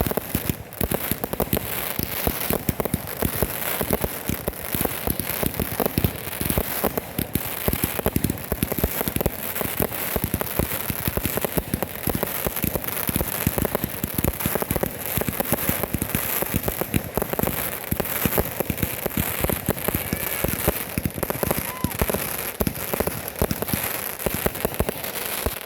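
Fireworks crackling: a dense, unbroken stream of small pops and crackles over a steady high hiss, stopping suddenly at the end.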